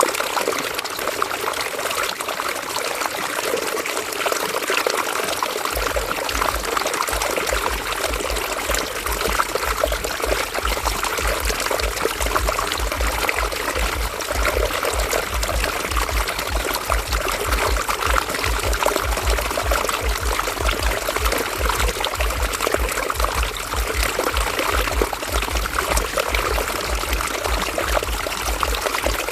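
River water flowing and trickling steadily, with an irregular low rumble underneath from about six seconds in.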